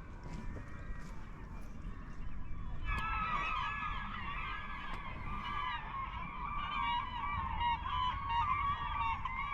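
A flock of large birds calling all at once, many overlapping honking calls, starting suddenly about three seconds in, over a low rumble.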